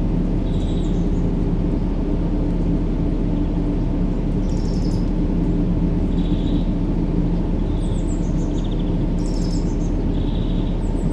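Steady low-pitched noise with a faint hum, unchanging throughout, as a baby-sleep white-noise track. Short high bird chirps come over it every second or two.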